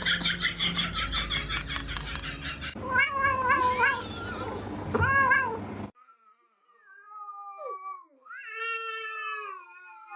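Cats meowing. First comes a run of rapid, pulsing yowls, then several separate meows that rise and fall in pitch. About six seconds in it cuts suddenly to quieter, drawn-out meows.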